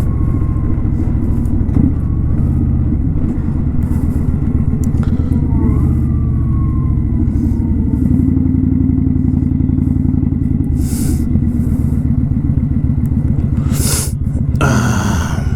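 Kawasaki Vulcan 900 Custom's V-twin engine running steadily with a low, pulsing note, its pitch shifting slightly about halfway through. Near the end comes a short burst of rushing noise.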